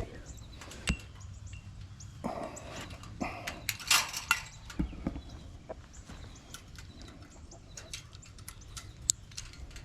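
Chickens calling faintly among scattered taps, clicks and short rustles.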